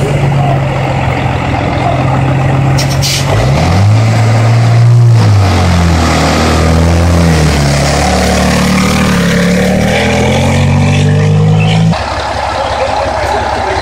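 Heavy truck diesel engine running, with a brief air hiss about three seconds in. The engine then revs up and down a few times, runs steadily, and cuts off suddenly near the end.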